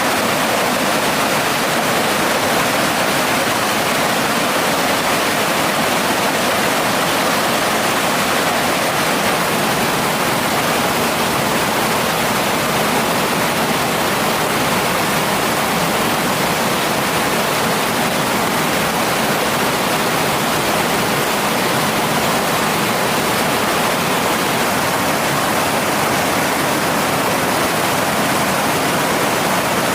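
Mountain stream water rushing steadily over rocks, a loud constant water noise.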